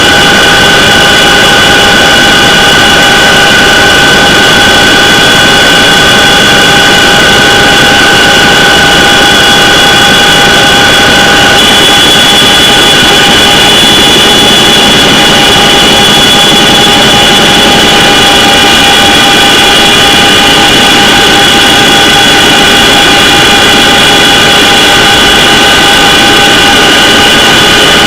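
CH-47 Chinook helicopter's twin turboshaft engines and rotors running, a loud, unbroken whine of several steady tones over a dense rush of noise. The mix of tones changes slightly about twelve seconds in.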